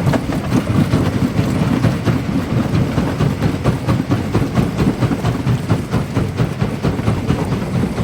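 Primary jaw crusher running and crushing rock: a continuous heavy rumble packed with rapid, irregular cracks and knocks of stone breaking in the jaws.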